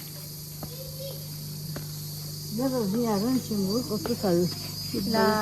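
Steady high-pitched chirring of insects such as crickets or cicadas over a low steady hum, with a person's voice rising and falling in the second half.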